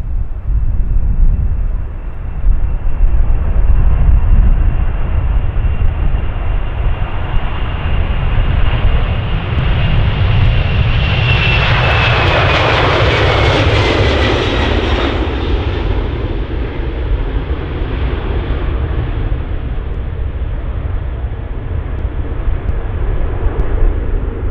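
Jet airliner's engines passing close by: a high whine and roar that build to their loudest about halfway through, the whine falling in pitch as the aircraft goes past, then easing back to a steady rumble.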